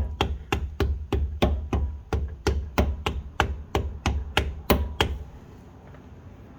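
Quick, even taps, about three a second, driving a new rear main seal into a Honda Civic engine to seat it flush. The tapping stops about five seconds in.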